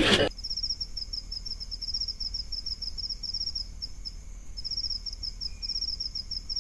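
Cricket chirping sound effect: a fast, even train of high chirps with a short break about four seconds in, cutting in and out abruptly, the stock cue for an awkward silence.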